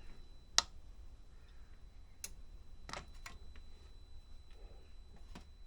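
A few sharp, irregularly spaced clicks, the loudest about half a second in: buttons being pressed on the control panel of a 12 V Chinese diesel heater to switch it on.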